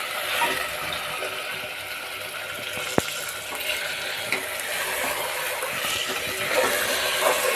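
Mutton curry frying in oil in an aluminium pressure cooker, sizzling steadily as a metal spatula stirs and scrapes through it, with one sharp clink about three seconds in. The meat and masala have cooked down until the oil separates.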